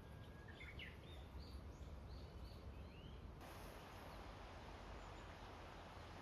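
Faint outdoor ambience with a few short bird chirps in the first half. About halfway it changes suddenly to a steady, even hiss with no calls.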